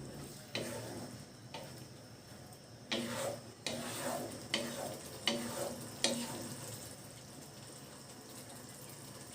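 Spatula stirring and scraping a spice paste of onions and ground masala as it fries in a pan, with sizzling. The strokes come about once a second until about six seconds in; after that only a faint sizzle.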